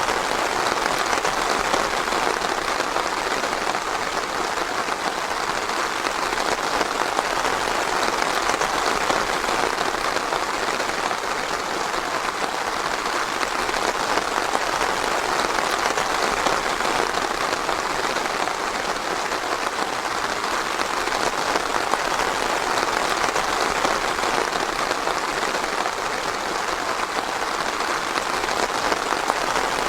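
Steady rain falling, a dense even hiss of many drops pattering without a break.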